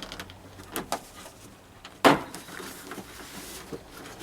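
Plastic boot lid liner being prised off, its trim clips letting go with a few sharp clicks and one loud snap about two seconds in.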